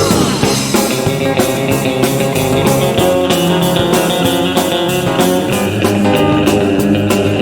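Live rock band playing an instrumental passage with no singing: electric guitar over bass, drums and keyboard. A guitar note slides downward at the very start.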